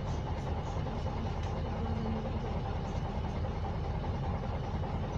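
A MAZ-104 city bus's YaMZ-236M2 V6 diesel engine running steadily, a low rumble heard from inside the passenger cabin, with a few faint clicks.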